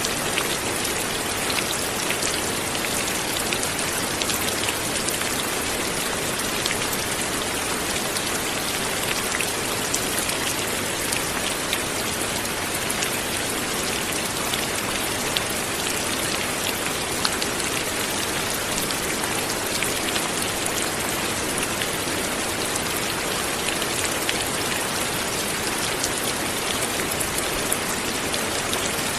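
Light, steady rain falling, with fine patter of drops striking a surface.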